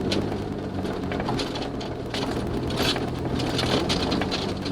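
Suzuki Jimny JB23W's 660 cc turbocharged three-cylinder engine running steadily while driving, with tyres crunching and popping over a gravel forest road.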